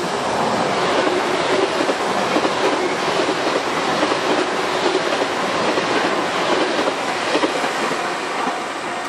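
A JR 383 series electric limited-express train passing close by at speed, its wheels clattering over the rail joints. It eases off a little as the last car goes by near the end.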